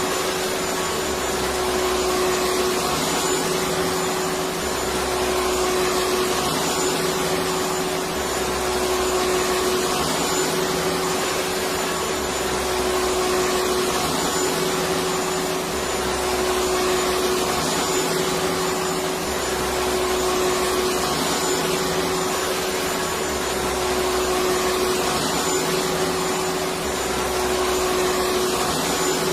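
Electric vacuum cleaner running steadily: an even whooshing noise with a constant hum, and a low pulse that comes back about every three and a half seconds.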